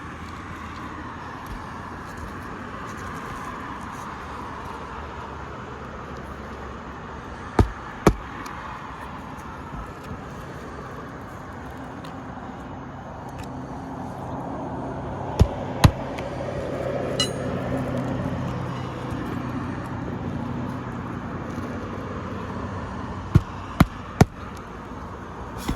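Sharp taps from hand tools working the nails of asphalt roof shingles, in pairs and threes a few seconds apart. A passing vehicle swells up and fades in the middle.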